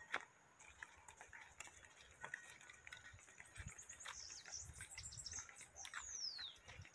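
Faint birdsong with a few soft clicks: from about three seconds in, a run of rapid high chirps, ending near the end with a single falling whistle.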